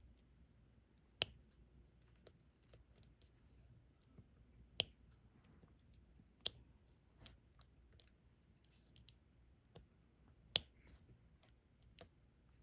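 Sparse, irregular clicks and taps of a diamond painting stylus picking up resin drills and pressing them onto the canvas, over a near-silent background. The sharpest clicks come about a second in, near the middle and near the end.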